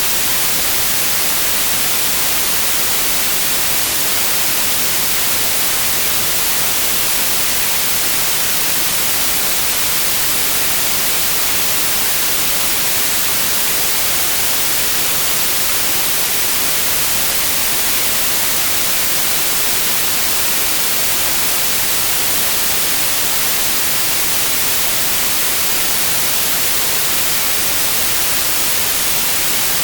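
Steady white noise: an even, unchanging hiss across the whole frequency range, brightest in the highs, with no events.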